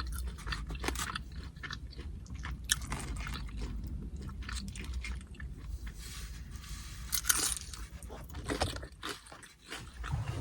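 Crunching and chewing of carne asada chips (tortilla chips loaded with meat and salsa), many short irregular crunches.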